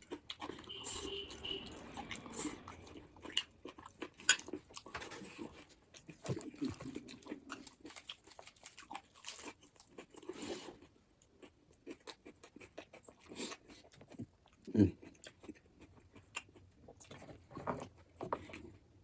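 Close-up mouth sounds of a person eating buffalo bone marrow and noodles: chewing, with irregular wet smacks and clicks.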